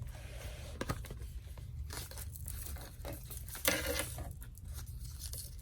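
Paper and card rustling as hands handle the pages, tags and pockets of a decorated paper file folder, with one brief louder rustle about two-thirds of the way in.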